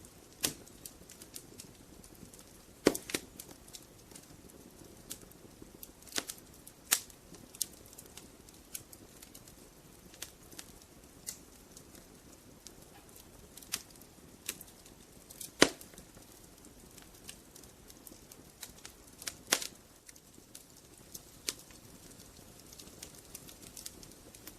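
Wood fire crackling in a fireplace: burning logs give a soft steady hiss with irregular sharp pops and snaps, the loudest a few seconds apart, about three seconds in, near the middle and late on.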